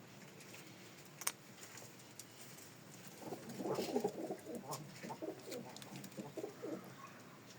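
Domestic pigeon cooing: a run of pulsing low coos for several seconds in the middle, with a sharp click shortly before.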